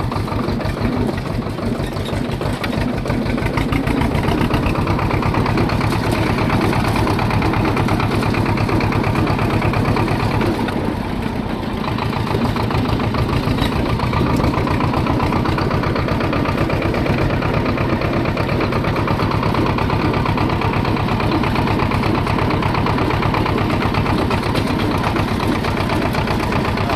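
Swaraj 724 tractor's two-cylinder diesel engine running steadily under way, with a rapid, even chugging beat; it eases off briefly about eleven seconds in, then picks up again.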